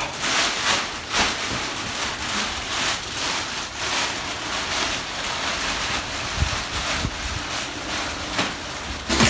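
Rustling and crinkling of packaging being handled: a continuous hiss broken by irregular crackles.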